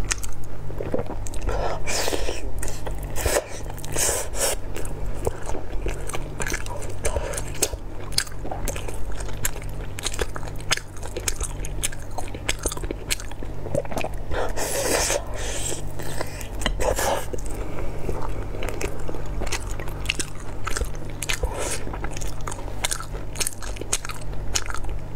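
Close-miked chewing and biting of a Chinese rice sausage, a dark casing stuffed with purple rice, eaten from spicy sauce: a steady run of small wet clicks and mouth smacks.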